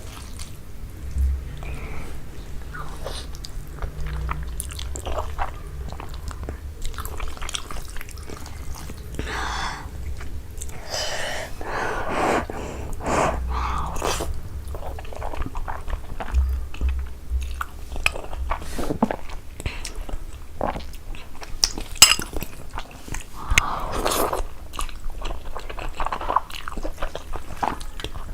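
Close-miked chewing and biting of noodles: a continuous run of small wet mouth clicks and short smacking sounds.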